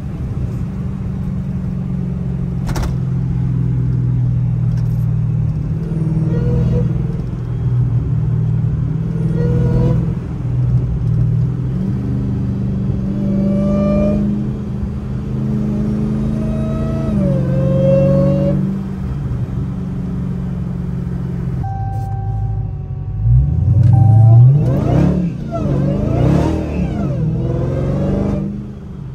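Hellcat-engined Chrysler's supercharged 6.2-litre HEMI V8, heard from inside the cabin, running steadily at cruise with a brief rise in revs. Near the end it is opened up, and the revs climb and fall sharply; this is the loudest part.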